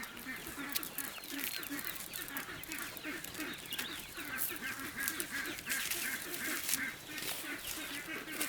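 A flock of domestic ducks quacking continuously, many short overlapping calls at once.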